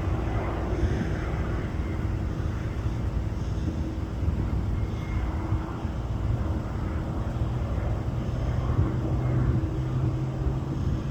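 Air Tractor AT-802A crop duster's turboprop engine and propeller droning steadily, with a constant low hum.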